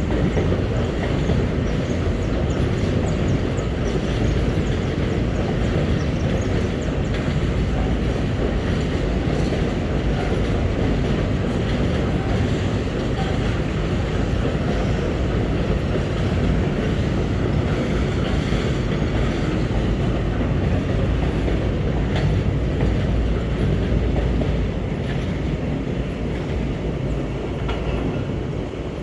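Empty GDT ore wagons of a long freight train rolling past, a steady wheel-on-rail rumble with clickety-clack over the rail joints. It eases slightly near the end.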